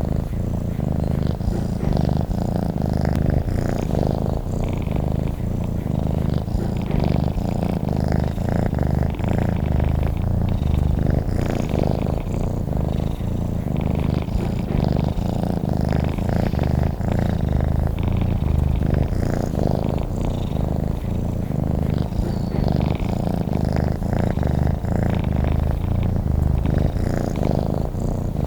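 Domestic cat purring steadily, a continuous low rumble with no pauses.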